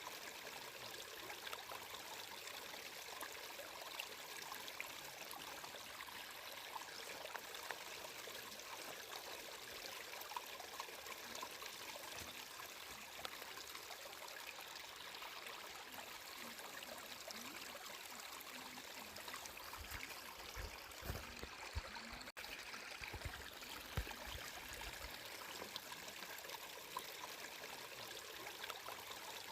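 Flowing water running steadily, an even rush with small trickling splashes. A few brief low thuds come about two-thirds of the way through.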